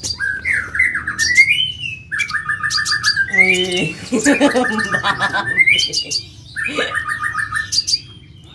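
Kolibri ninja, a sunbird, singing loudly: a run of varied gliding whistled notes broken by three fast rattling trills of about a second each.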